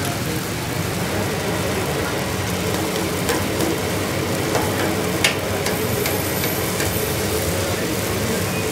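Food sizzling steadily as it fries in hot oil, with a few sharp clicks, the loudest about five seconds in.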